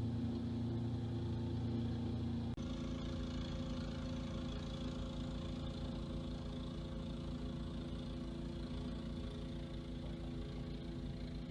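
An engine running steadily at idle, with a brief break in the sound about two and a half seconds in.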